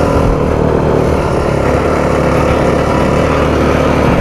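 Yamaha WR250F's single-cylinder four-stroke engine running at a steady throttle under way on a dirt trail, loud and even throughout.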